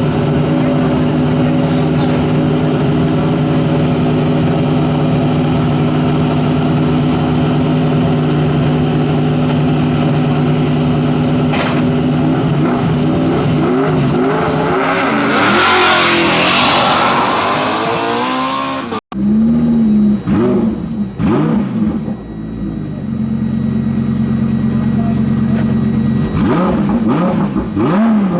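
Hill-climb race car engines: one holds a steady note for about fifteen seconds, then revs up and down as the car gets going. After an abrupt cut, another engine revs, holds steady, and revs again near the end.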